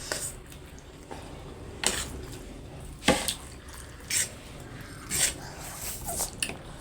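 Instant noodles being slurped and eaten, short wet slurps about once a second.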